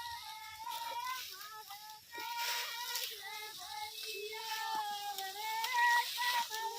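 Women singing a Marwari folk song (bhahiya geet) in high voices with long held notes, with a brief rustling noise about two and a half seconds in.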